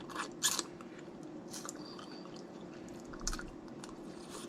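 Wet chewing and cracking of snow crab legs: scattered short clicks and crackles, a few louder ones near the start, over a faint steady hum.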